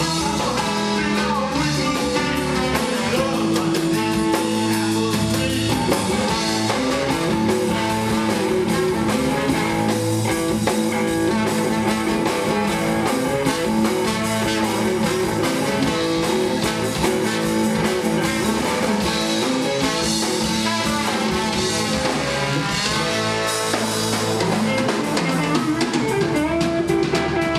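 Band music with guitar and drum kit playing an instrumental passage.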